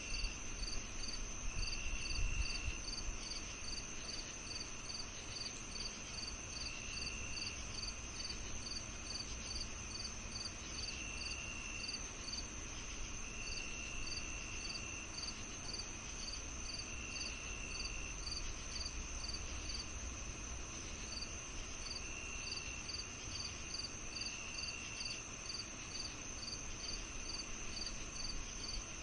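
Summer evening chorus of crickets and other insects: a steady high trill with evenly spaced chirps at about two or three a second, and a lower buzzing phrase of about a second coming in now and then, over a faint low rumble.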